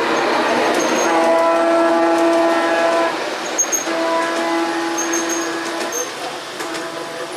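G-scale model train running on the garden railway track, with two sustained pitched tones of about two seconds each, a second or so apart.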